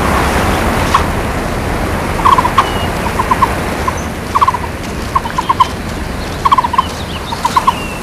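A bird calling repeatedly, each call a quick run of three or four short notes, about once a second, with a few brief higher whistles. Behind it is a steady rushing background of forest ambience.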